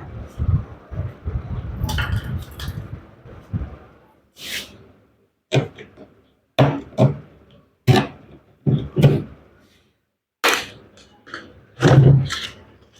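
Work on a top-load washing machine's drum: a rumbling scrape for the first few seconds, then a series of separate knocks and clunks.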